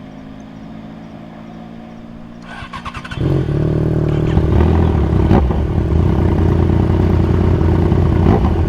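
Motorcycle engine running quietly, then about three seconds in, after a brief crackle, it suddenly becomes much louder and keeps running hard as the bike pulls away.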